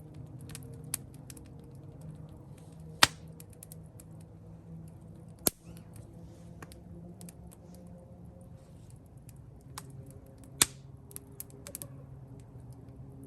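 Wood campfire crackling with a steady stream of small ticks, and three loud sharp pops about three, five and a half and ten and a half seconds in.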